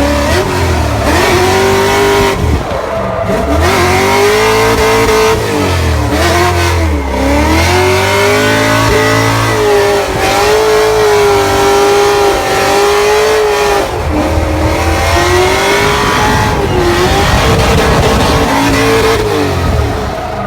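Drift car engine revving hard and held at high revs, its pitch swinging up and down with repeated short dips as the throttle is worked through the drift.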